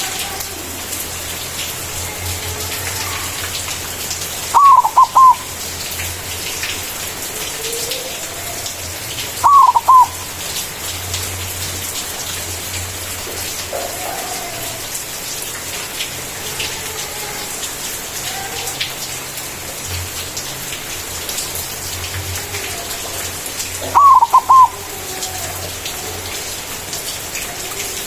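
Zebra dove (white perkutut) cooing its rapid stuttering song three times, each phrase under a second and much louder than the rest. Between the phrases are fainter bird calls over a steady hiss.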